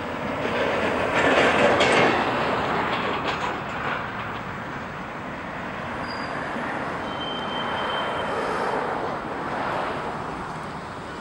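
Railroad cars rolling past on the track during yard switching, a steady rumble and clatter of wheels on rail that is loudest a second or two in. A couple of brief, thin wheel squeals sound a little past halfway.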